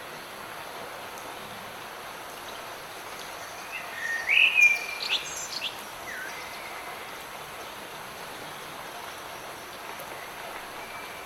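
Light rain falling steadily, with songbirds calling: a loud run of quick chirps and whistles about four to six seconds in, then a few fainter calls.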